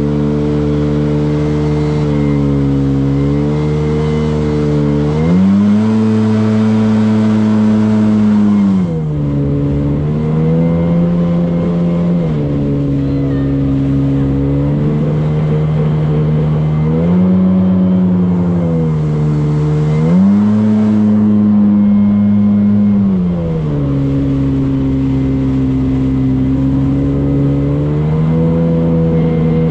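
Motorboat engine running under way. Its pitch rises and falls several times as the throttle is opened and eased off, over a steady rush of wind and water.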